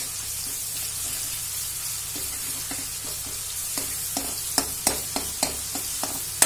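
Ginger-garlic paste sizzling in hot oil in a metal kadai, with a steady hiss. It is stirred with a steel ladle that clicks and scrapes against the pan, more often in the second half.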